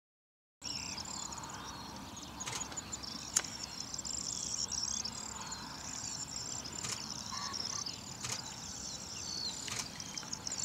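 A steady outdoor chorus of high-pitched chirping, with a few faint clicks scattered through it.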